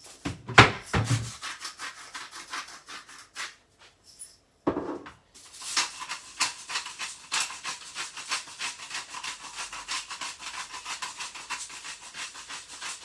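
Salt and pepper mills being twisted to grind seasoning, a rapid gritty clicking, in two bouts with a short knock between them.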